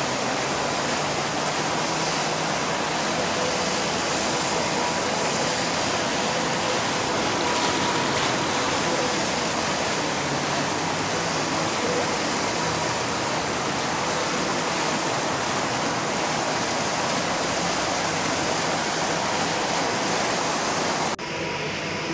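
A steady, even rushing noise like running or falling water, with faint steady tones under it, cutting off abruptly near the end.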